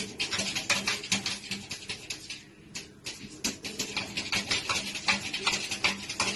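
Rapid, irregular scratching and tapping clicks, several a second, over a steady low hum.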